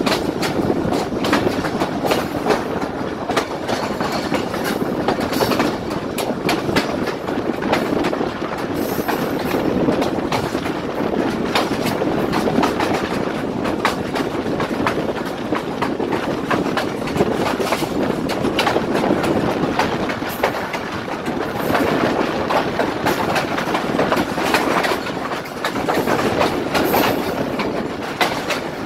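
Pakistan Railways passenger coach running at speed, heard from an open window: a steady rumble of steel wheels on the track with a dense, continuous clickety-clack.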